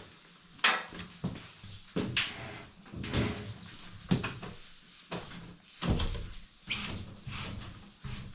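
Irregular knocks, thuds and scraping as a front-load washing machine and its pedestal are handled and shifted by hand, with a sharper bang every second or so.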